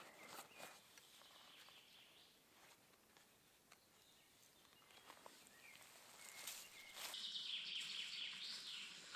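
Quiet forest ambience with a few faint rustles and clicks, then birds chirping and warbling from about seven seconds in.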